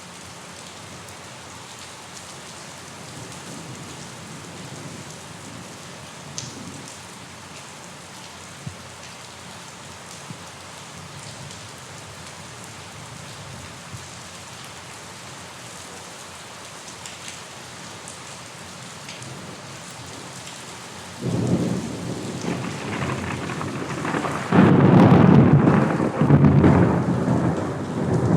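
Steady rain falling. About three-quarters of the way through, thunder breaks in suddenly and rolls on loudly, swelling in several surges, much louder than the rain.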